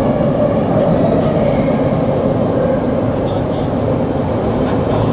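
Tokyo Metro 7000 series subway car running in a tunnel, heard from inside the car: a steady rumble of wheels and running gear with a faint whine from its Hitachi IGBT-VVVF traction motors.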